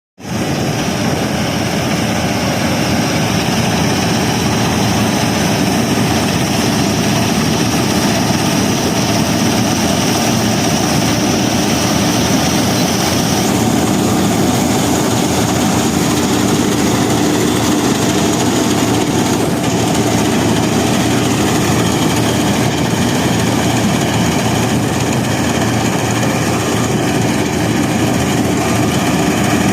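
Combine harvester at work, its engine and threshing machinery running in a loud, steady drone with a constant hum; a faint high whine drops out about halfway through.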